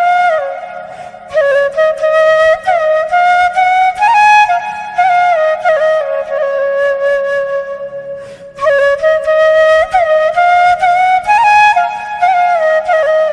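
Flute music: a single flute melody sliding between notes, with brief breaks about a second in and again past eight seconds.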